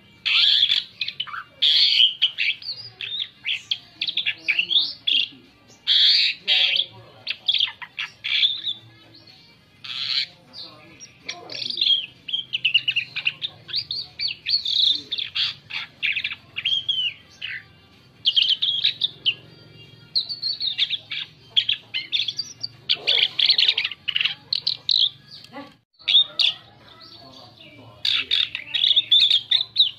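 Asian pied starling (jalak suren) singing a varied song: rapid chattering chirps and whistles in bursts of a second or two, separated by short pauses.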